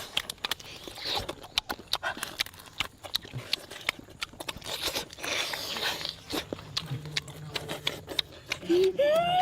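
Close eating sounds: crunchy chewing with many sharp irregular clicks. Near the end a long voice-like call starts, rising and then falling in pitch.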